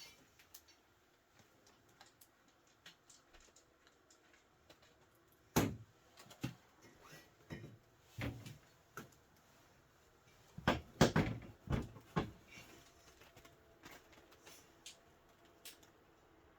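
Irregular knocks, taps and clatter as a rear window panel is jiggled into line on a side-by-side's cab frame. One sharp knock comes about a third of the way in, and a quick run of louder knocks a little past the middle.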